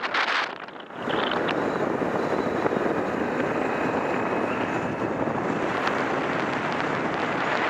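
Steady vehicle noise, an even hiss-like drone of a motor vehicle on the move, starting after a brief drop in level about a second in.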